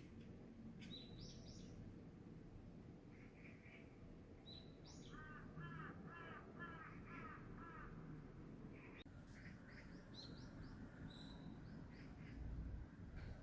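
A crow cawing a quick run of about six caws in the middle, faint, while small birds chirp with short high notes throughout.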